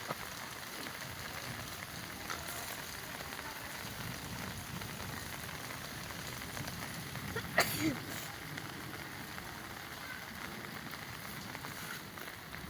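Steady rain falling. A single brief sharp sound cuts through a little past halfway.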